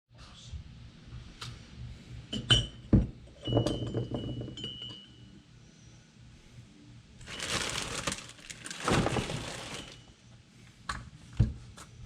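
Small metal carburettor parts and hand tools clinking and tapping, with a brief metallic ring about two and a half seconds in and again a second later. Past the middle comes a couple of seconds of dense rustling noise.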